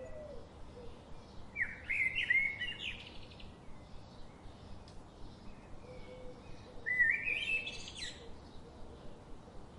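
Songbirds singing: two loud warbling phrases, one about one and a half seconds in and another about seven seconds in, over faint background chirping and steady low noise.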